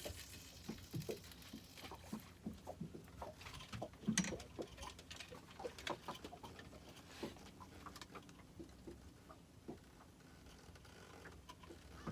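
Light, irregular tapping and knocking, with one louder knock about four seconds in.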